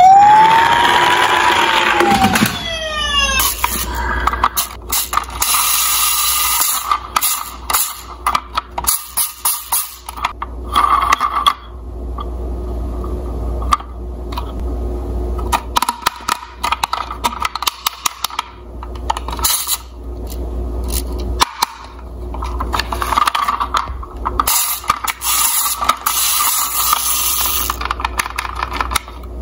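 A siren wail that rises, falls and fades out over the first few seconds, followed by irregular clicking, clinking and rattling of small diecast toy cars, on and off.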